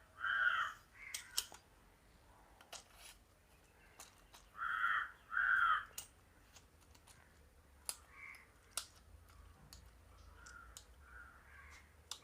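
A crow cawing: one caw near the start and two more in quick succession about five seconds in. Scattered small clicks and taps come from the tripod's legs and latches being handled.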